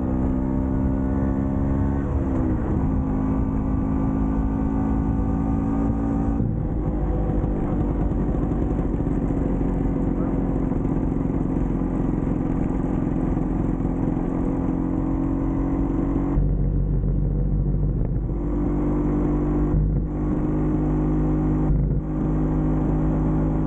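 Vespa PX scooter's single-cylinder two-stroke engine running under way, a steady buzzing note. Its pitch dips and recovers about two seconds in. The higher part of the sound falls away for about two seconds after the 16-second mark, then comes back with short breaks twice near the end, as the throttle and gears change.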